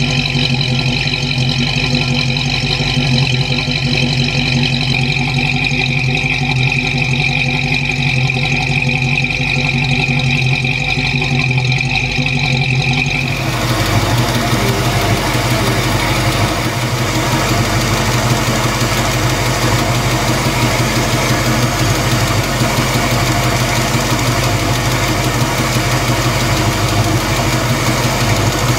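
1967 Mercury Cougar XR-7's rebuilt 289 V8 with four-barrel carburettor idling steadily. It is heard first at the rear exhaust; about halfway through the sound switches to the open engine bay, fuller and with more hiss.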